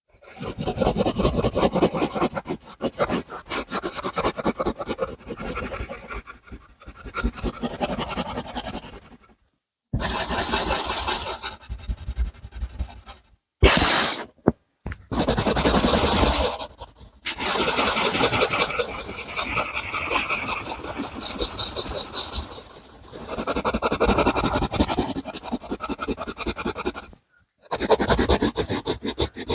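Rapid back-and-forth strokes of a drawing tool scratching on paper, colouring in, in long runs broken by several short pauses.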